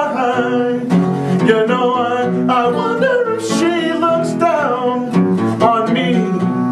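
Acoustic guitar strummed and picked under a sung vocal line that wavers on held notes.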